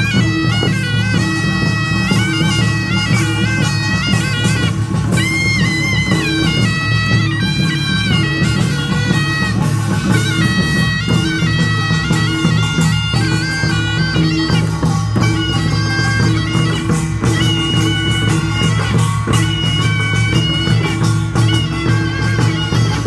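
Korean nongak farmers' band music: a taepyeongso shawm plays a loud, bending, ornamented melody over continuous beating of gongs and drums.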